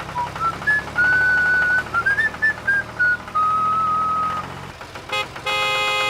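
A cheerful tune whistled in short gliding notes and held tones, over a low steady hum. Near the end it gives way to a short buzzing tone.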